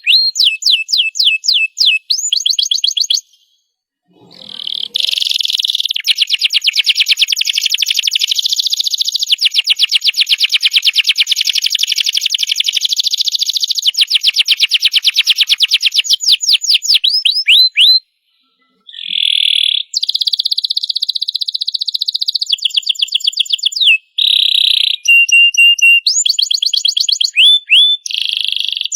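Domestic canary singing a long song of rapid trills and rolls made of fast repeated high notes, changing tour every few seconds. It breaks off briefly twice, about four seconds in and again near the middle.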